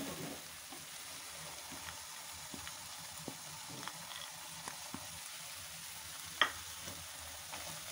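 Grated-carrot halwa sizzling steadily in a pan over full flame, at the roasted stage, with scattered small ticks and one sharper click about six and a half seconds in.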